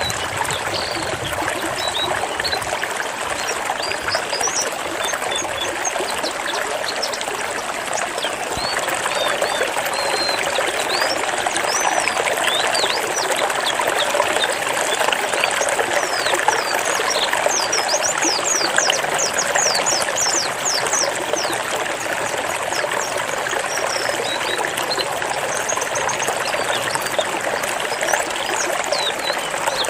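White-eye (pleci) song: quick runs of thin, high notes, most crowded a little past the middle. Underneath is a steady trickling-water sound, the kind of background such birdkeepers' tracks often carry.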